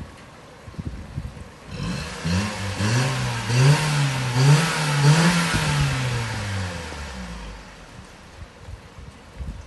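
Nissan March K11's inline-four petrol engine revved up several times in quick succession, starting about two seconds in, then dropping back toward idle.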